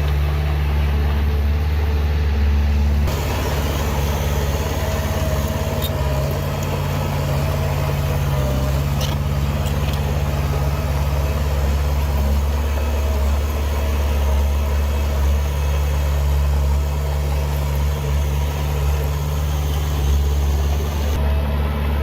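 Heavy diesel earthmoving machinery running steadily with a deep, even engine drone; the sound shifts about three seconds in and again shortly before the end.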